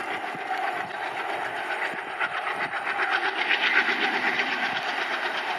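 Train running on the rails, a steady rumble with a fast, even rattle of wheels and carriages that grows a little louder partway through.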